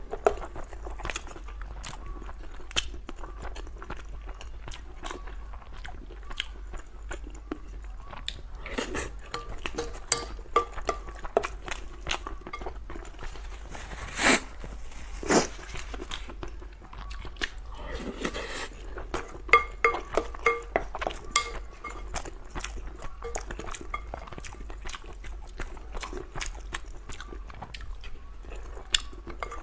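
Close-up mouth sounds of a person eating braised pork belly with rice: steady wet chewing and smacking with many small sharp clicks, and two louder clicks about midway.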